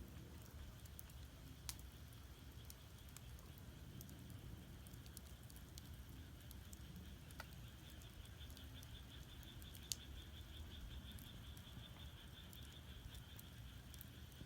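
Firewood burning in an agungi, a traditional Korean fire hole: faint scattered crackling, with a sharper pop about two seconds in and another about two-thirds of the way through. A faint high trill runs in the background, pulsing rapidly in the second half.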